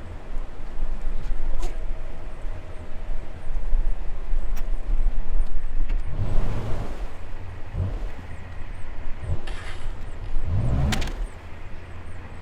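Narrowboat engine running steadily, with louder bursts of noise about six and a half and eleven seconds in.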